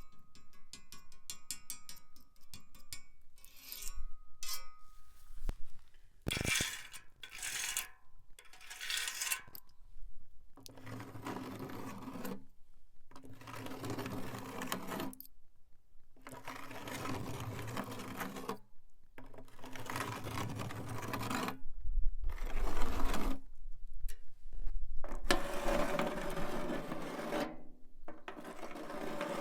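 A nail worn on a fingertip taps rapidly on a rusty iron bar, then scrapes a few times across a rusty milk bottle. From about ten seconds in it scratches over a rusty can in repeated strokes, each a second or two long, with short pauses between them.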